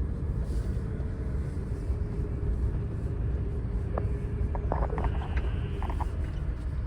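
Truck running at low speed with a steady low rumble. A few light clicks and rattles come about four to six seconds in.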